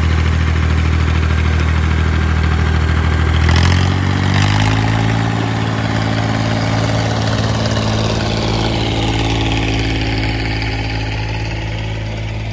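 Ford 1910 tractor's three-cylinder Perkins diesel running under load while dragging a heavy log. About three and a half seconds in, it revs up and then holds steady at the higher engine speed, with a couple of brief knocks around the change.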